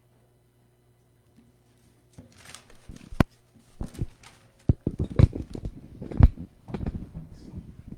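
Handling and movement noise close to a microphone: after a short silence, an irregular string of knocks, thumps and rustling begins about two seconds in.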